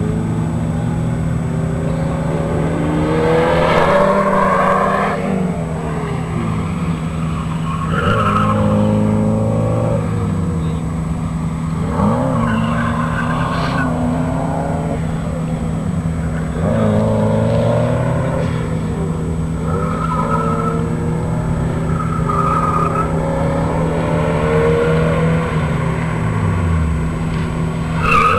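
Toyota MR2 Turbo's turbocharged four-cylinder engine revving up and falling back again and again as the car is driven hard around a cone course, with tire squeal in the turns.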